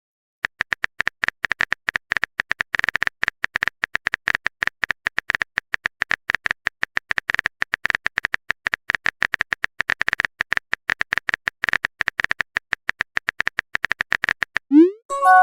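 Rapid, irregular typing clicks from a phone keyboard sound effect, many taps a second, running for about fourteen seconds, then a short rising blip just before the end as a message is sent.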